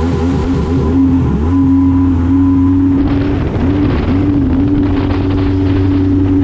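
Yamaha WaveVenture 1100 jet ski's three-cylinder engine running under way. Its pitch wavers up and down for about the first second and a half, then holds steady with a brief dip about four seconds in. A rushing hiss joins about halfway through.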